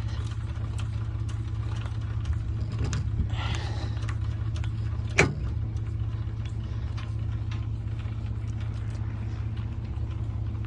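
Pickup truck engine idling steadily with a low, even hum. A single sharp knock about five seconds in.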